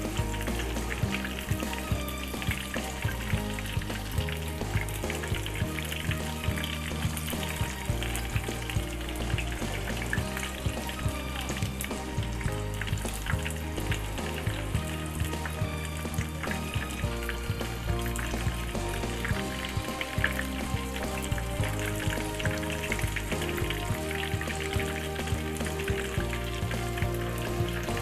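Breaded chicken scallop frying in a pan of hot oil: a steady, dense sizzle full of small crackles and pops.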